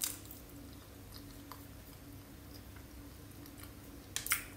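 Soft chewing of a mouthful of banana, with a few short wet mouth clicks a little after four seconds in, over a faint steady hum.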